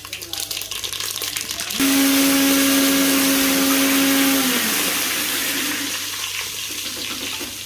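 Spices crackling and spitting in hot oil as a tempering of mustard seeds, cumin and whole spices cooks in a pot. About two seconds in, a loud hiss with a steady low whistling tone starts, holds for nearly three seconds, then dips in pitch and fades into a hiss.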